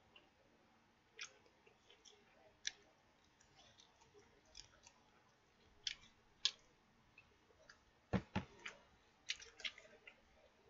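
Faint, sporadic chewing and wet mouth clicks of someone eating rice and soy-sauce-fried bacon. Two dull knocks come about eight seconds in, followed by a quick cluster of clicks.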